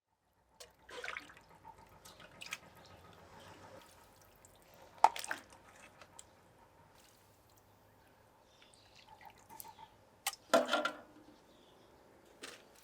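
Scattered tableware and liquid sounds of eating soup: a few short clinks and knocks, one with a brief ring, and small liquid sounds, spaced irregularly over a quiet background.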